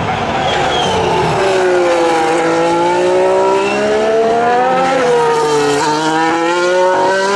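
Formula 1 car's turbocharged V6 hybrid engine running at speed. Its pitch falls for the first two or three seconds as the car slows, then climbs again, dipping briefly twice near five and six seconds in as it shifts up.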